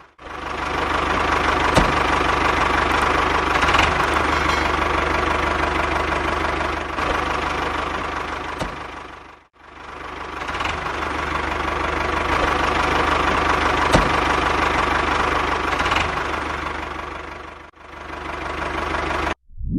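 Small motor of a DIY mini tractor rice threshing machine running steadily with a rapid knocking rattle. It drops out briefly twice, near the middle and near the end.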